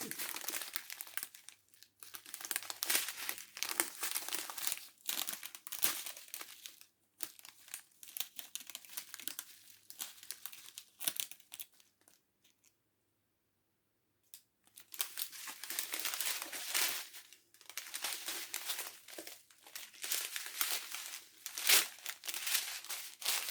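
Plastic packaging of a diamond painting kit crinkling and tearing as it is unwrapped and handled, in irregular bursts with a pause of about two seconds midway.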